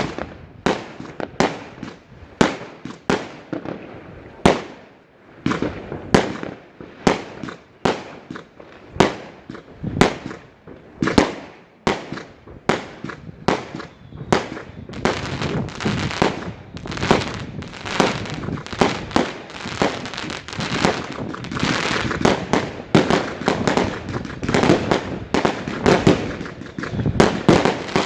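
Fireworks going off in a rapid string of sharp bangs, about one to two a second. From about halfway through, the bursts overlap and fill in with dense crackling.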